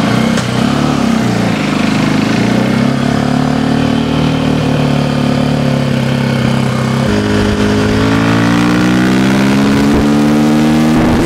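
A KTM dirt bike's engine runs as the bike pulls away, holding a fairly steady low note. About seven seconds in the note changes, then it rises steadily as the bike speeds up.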